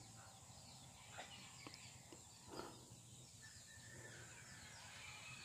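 Near silence: faint outdoor background with distant birds calling and a few soft clicks.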